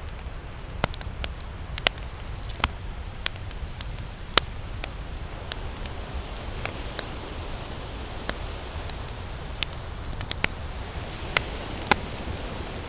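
Campfire crackling: irregular sharp pops and snaps of burning wood, a dozen or more spread unevenly, over a steady low rumble.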